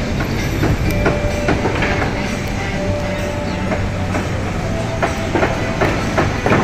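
Building-site noise: machinery running steadily, with many irregular sharp metallic knocks and clanks.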